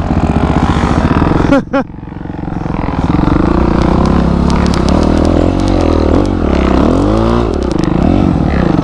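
Motorcycle engine running under load on an off-road trail. It gives a quick rev blip, then builds again and swings up and down in pitch as the throttle is worked. Scattered sharp ticks ride over the engine in the middle part.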